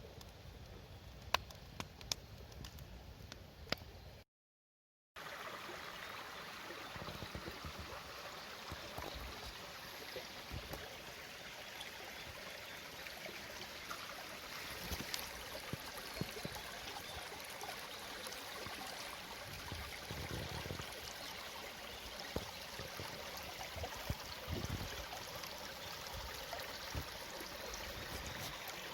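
Small stream babbling steadily over stones, an even rush of water. In the first few seconds, before a brief dropout about four seconds in, there are a few sharp clicks instead.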